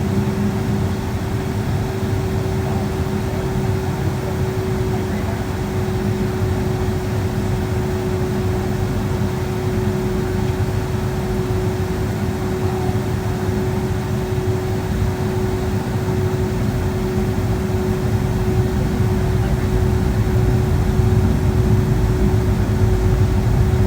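Steady cabin noise inside a Boeing 757-200: a low engine and airframe rumble with a constant hum over it, growing slightly louder over the last few seconds.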